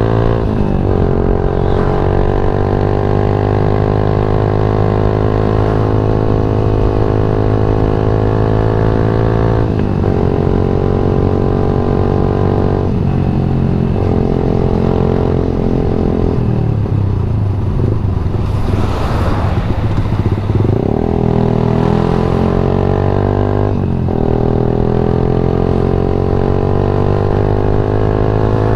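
Yamaha MX King 150's single-cylinder four-stroke engine and exhaust running under way at steady revs, the note breaking off briefly a few times. A rougher, noisier stretch comes a little past halfway.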